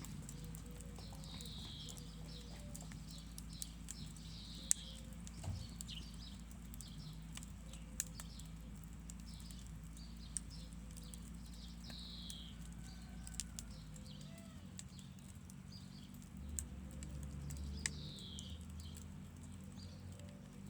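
Songbirds chirping with many short, quick falling notes, over a steady low hum, with scattered sharp clicks and a low rumble near the end.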